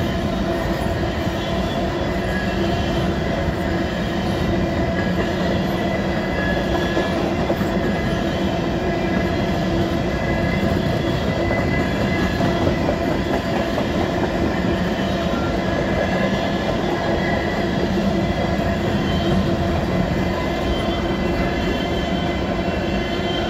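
Covered grain hopper cars of a freight train rolling steadily past: continuous wheel-on-rail rumble with clickety-clack over the rail joints and steady high tones over it.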